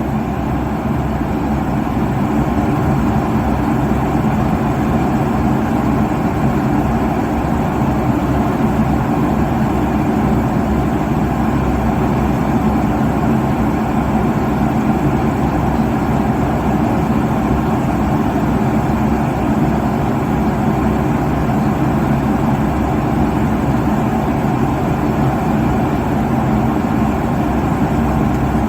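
Airliner cabin noise at cruise altitude: the steady rumble and rush of the jet engines and the airflow over the fuselage, even in level, with no breaks.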